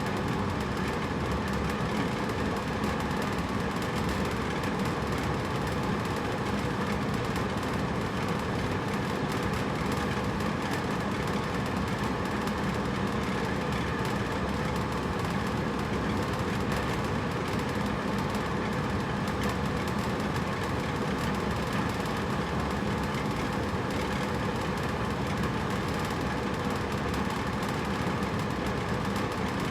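Hotel room air conditioner running steadily: an even whooshing rush of fan air with a faint low hum, unchanging throughout.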